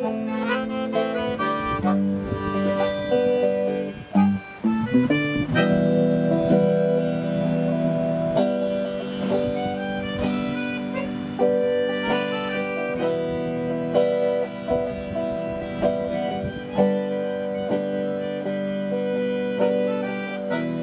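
Accordion and guitar duo playing an instrumental piece live: the accordion holds sustained reedy chords and melody over plucked guitar notes, with a short break about four seconds in before the music picks up again.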